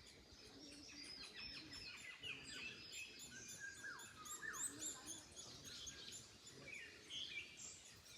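Several birds singing and chirping together, many short high whistled phrases overlapping, over a faint rustle of wind in trees.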